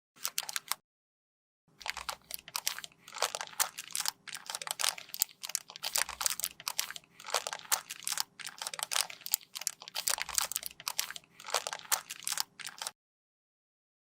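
Close-up crunching and scraping of a cosmetic product being worked by hand, a dense run of crisp crackles. A short burst comes first, then after a brief pause a long continuous stretch that cuts off abruptly near the end.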